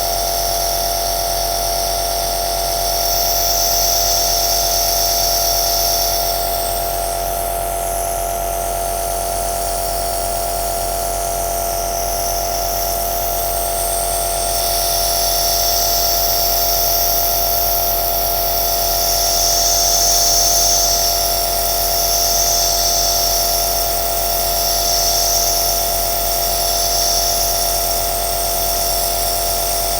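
Compressor nebulizer (aerosol machine) running steadily: a constant motor hum with a high hiss of air that swells and fades every so often.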